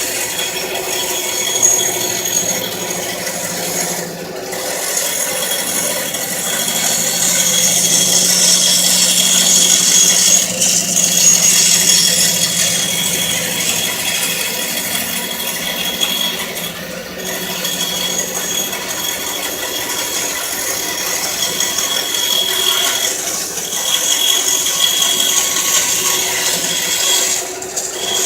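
Bandsaw running, with its blade cutting a circle using a sliding-board circle jig. It is a steady, loud, rattly running noise with a few brief dips.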